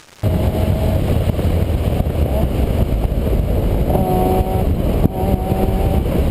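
Heavy low rumble of a vehicle in motion, recorded on a GoPro. It starts about a quarter second in, right after a brief cut-out of the audio.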